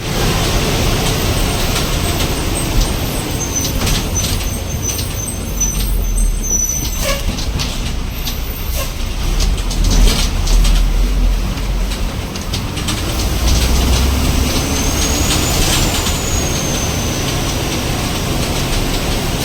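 MSRTC 'Lalpari' red state-transport bus running, a steady heavy engine rumble with rattles and clicks. A thin high whine rises and falls about three quarters of the way through.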